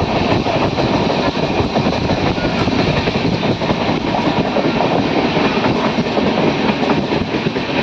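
Steady running noise of a moving passenger train, wheels rumbling and clattering over the track.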